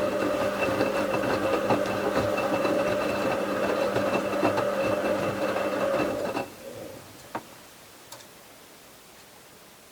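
Bauknecht WA 7778 W front-loading washing machine turning its drum in the wash, the motor running with a steady hum and whine over a rattle. It stops about six seconds in, leaving a pause with a single click. The drum bearing is already starting to fail.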